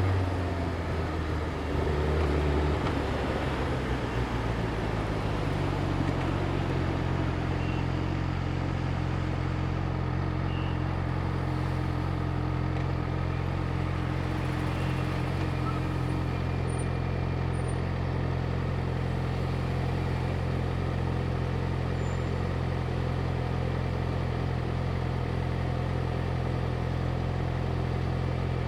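Yamaha YZF-R6's inline-four engine idling, settling to a steady low idle within the first few seconds and then holding it.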